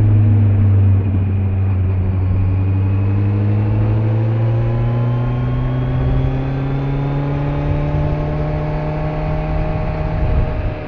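Kawasaki Z900's inline-four engine pulling steadily under light throttle, its pitch climbing slowly as the bike gains speed. Wind and road noise run underneath.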